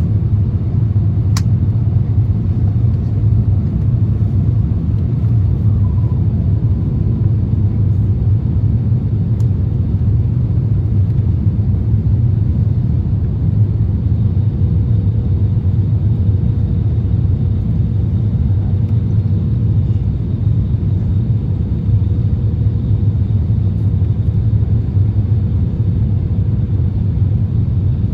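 Steady low rumble of an Airbus A350-1000's engines and airflow heard inside the cabin, with a short click about a second in and faint steady whines joining midway.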